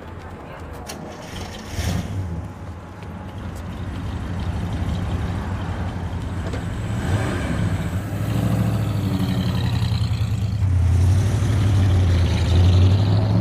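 A motor vehicle's engine rumbling low and growing steadily louder, then cutting off suddenly at the end.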